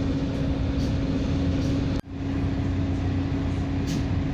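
Steady running noise inside a moving diesel multiple-unit (DMU) commuter train: a low rumble with an even hum, cut by a very brief dropout about two seconds in.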